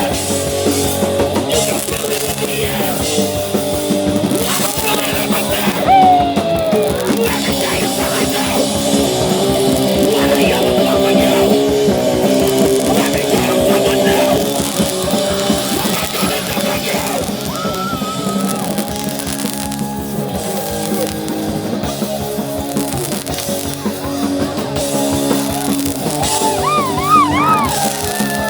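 Hardcore punk band playing live and loud: distorted electric guitar, bass and drums, with yelled vocals over the top.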